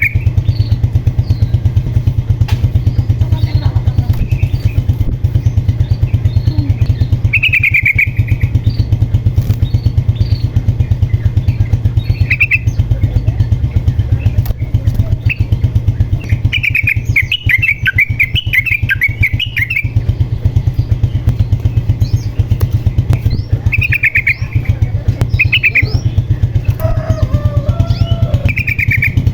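Yellow-vented bulbul singing short bubbly phrases every few seconds, with one longer chattering run about halfway through. Underneath is a loud, continuous, rapid low throbbing, like an engine.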